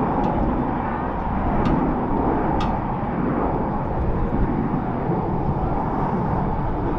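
Airbus A320-200 jet engines running, a steady rumble as the airliner comes in to land.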